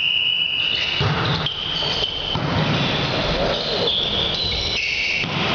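Sneakers squeaking on a sports hall court floor during volleyball play: high drawn-out squeaks that shift in pitch, over the echoing noise of the hall and players' voices.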